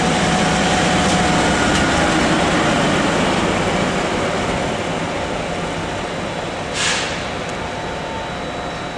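SM42 diesel shunting locomotive running through the station, its engine a loud steady rumble that eases off slowly after the first few seconds. A short hiss comes about seven seconds in.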